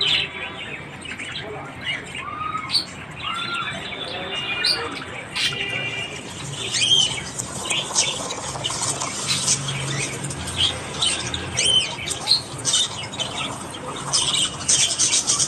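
Budgerigars chattering: scattered squawks and short warbling chirps at first, growing into dense, rapid chirping near the end.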